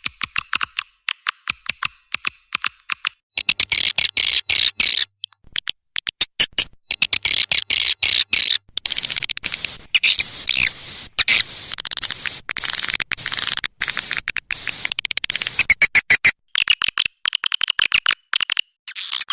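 Edible-nest swiftlet calls played as a swiftlet-house lure: dense, rapid twittering chirps and clicks in choppy bursts that start and stop abruptly, busiest in the middle.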